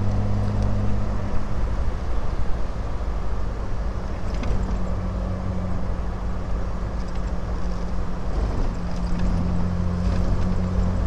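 Triumph Vitesse 2 Litre's straight-six engine running steadily as the car drives slowly, heard from inside the open-top cabin. The engine note shifts slightly a couple of times.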